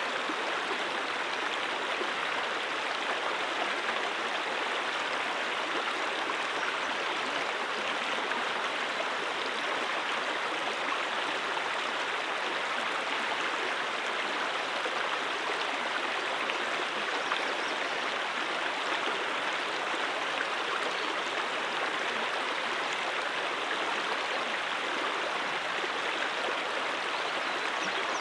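Brook water rushing steadily over rocks, an even continuous flow with no change in level.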